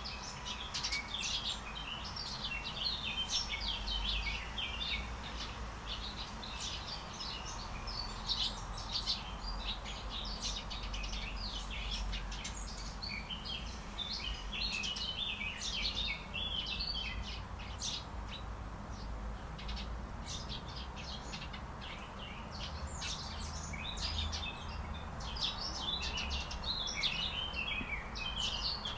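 A dense chorus of many small birds chirping and twittering without pause, over a steady low rumble.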